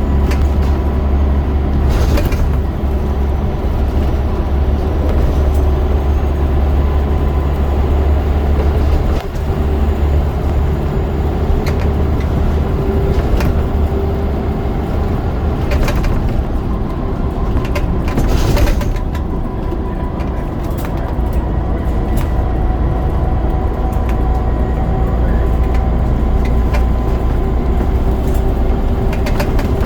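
Scania DC9 9.0-litre diesel of a Scania N94UD double-decker bus with a ZF Ecomat automatic gearbox, running steadily under load with a steady whine over the engine note. The engine note dips briefly about a third of the way in and again just past halfway, then builds back up, with a short clatter near the middle.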